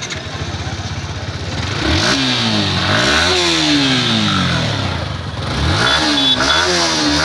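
Motorcycle engine idling, then revved: one long rev that climbs and slowly falls back, followed near the end by two quick blips of the throttle.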